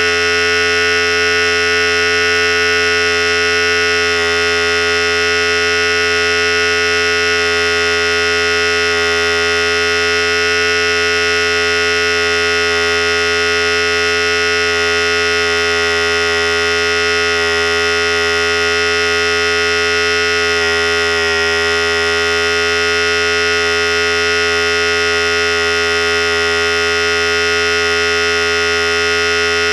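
Philips Series 5000 hair clipper running continuously: a steady electric buzz of many stacked tones over a low hum, unchanging in pitch and level.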